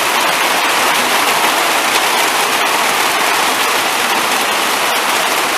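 Heavy rain falling steadily: a loud, dense, even hiss of countless drops.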